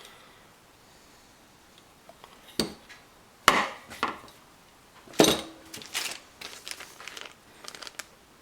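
Irregular knocks and clatter of faucet parts and tools being handled during reassembly, the loudest about three and a half and five seconds in, one with a brief ring.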